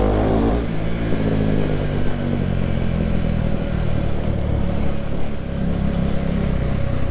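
Motorcycle engine running on the road, its pitch falling over the first couple of seconds as the bike slows, then holding fairly steady.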